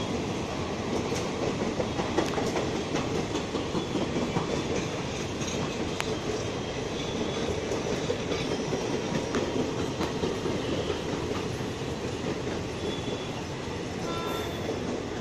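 Passenger coaches of an Indian Railways express train running through without stopping: a steady rolling rush of wheels on rail, with irregular clicks and clatter as the wheels cross rail joints.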